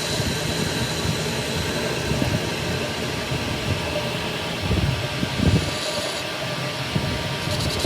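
Steady mechanical rumble and hiss with a thin high whine, broken by a few low thumps about five seconds in.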